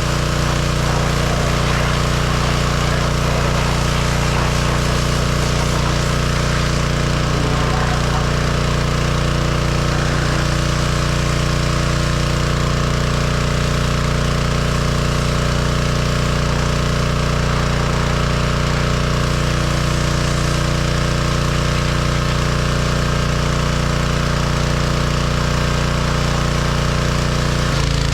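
John Deere 1025R compact tractor's three-cylinder diesel engine running steadily at constant throttle while it powers the backhoe, with a slight shift in pitch near the end.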